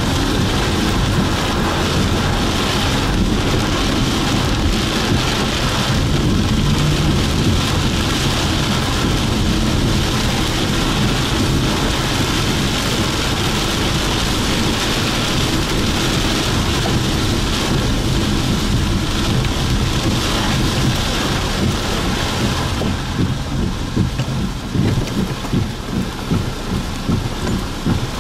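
Heavy wind-driven rain pelting a vehicle's windshield and body, heard from inside the vehicle as a loud, steady hiss over a low rumble. Near the end the hiss thins and the level starts to rise and fall in uneven gusts.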